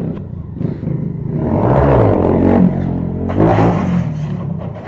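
Motorcycle engine revving hard, swelling and shifting in pitch, with a second burst of throttle about three seconds in.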